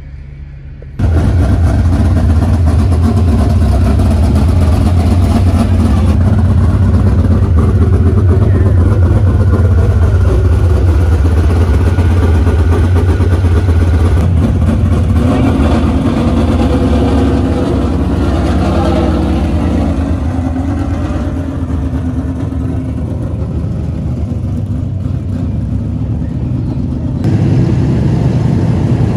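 Super stock dirt-track race car engine running loud and steady. It cuts in abruptly about a second in, with a rising and falling note in places, and the sound changes suddenly near the end.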